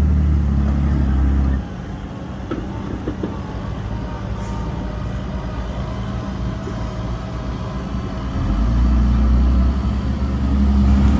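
Heavy diesel engine of earth-moving machinery running with a steady low drone. It is loud at first, drops to a lower, quieter run after about a second and a half, and grows loud again about eight and a half seconds in.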